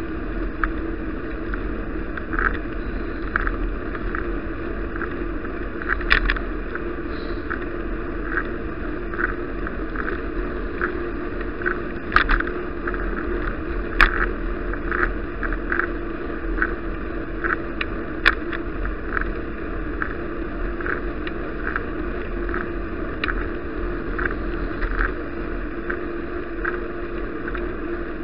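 Bicycle ride noise heard through an action camera: steady wind and road noise with a constant hum, and a light click repeating about twice a second, with a few sharper ticks around the middle.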